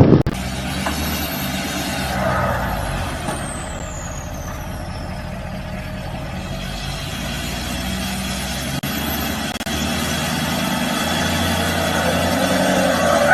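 A truck engine running steadily, with a louder swell about two seconds in and again near the end.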